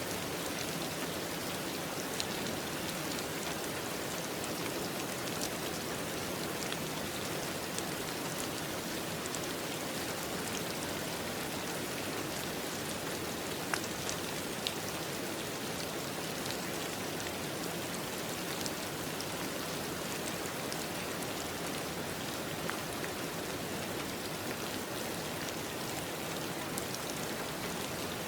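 Steady rain falling, an even patter with scattered drop ticks standing out here and there.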